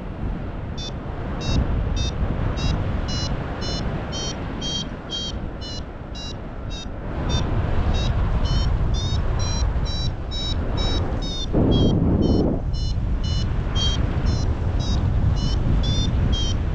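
Paragliding variometer beeping in quick, repeated high pulses, about two to three a second, the vario's climb tone while rising in lift. Heavy wind buffets the microphone underneath, gusting loudest near the end.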